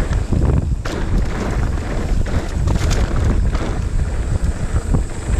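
Wind buffeting an action-camera microphone: a loud, uneven rushing noise, strongest in the low end.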